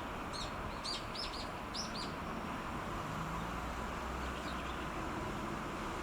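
A small bird chirping a quick series of about six short, high notes in the first two seconds, with a few fainter chirps a little later, over a steady background hiss and low rumble.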